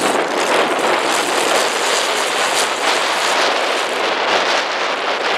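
Loud, steady engine noise of several demolition derby cars running at once in the arena.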